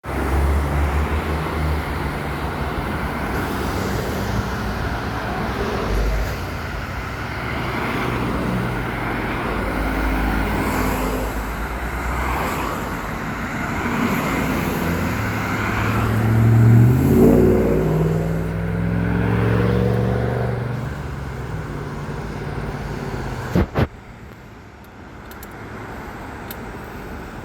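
Road traffic at an intersection: car engines running and passing, with one vehicle's engine rising in pitch as it accelerates away past the middle. A couple of sharp knocks come near the end, after which only quieter traffic noise remains.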